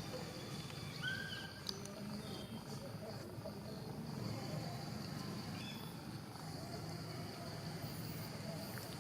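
Steady high-pitched insect drone, like crickets or cicadas, running on unbroken, with a few brief high chirps over it about a second in and again near the end.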